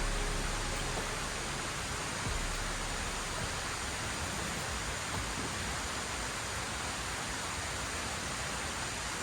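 A steady rush of water noise, even and unbroken, from heavy rain or the rushing river.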